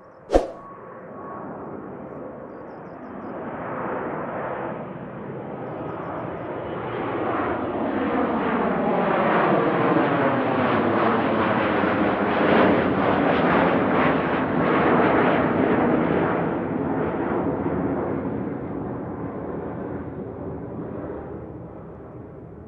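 Sukhoi Superjet 100 regional jet with its two SaM146 turbofans passing by: the engine rush builds up, is loudest around the middle, then slowly fades away. A sharp click sounds just after the start.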